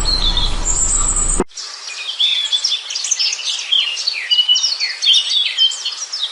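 Songbirds chirping, many short overlapping calls and whistles together, which begin abruptly about a second and a half in after a stretch of low rumbling background with a few high chirps.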